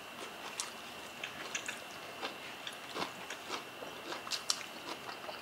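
Soft chewing with scattered wet mouth clicks and small ticks from two people eating steamed red snapper.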